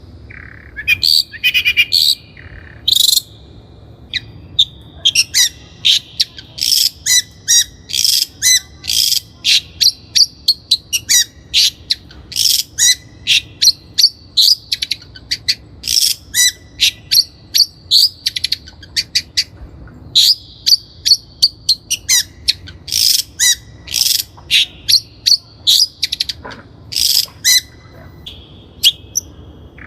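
Long-tailed shrike (Lanius schach) singing a rapid, harsh chattering song of short sharp notes, several a second, in runs broken by brief pauses.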